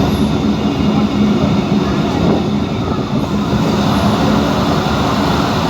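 Passenger train running, heard from inside the carriage: a steady rumble of wheels on the track with a constant low hum.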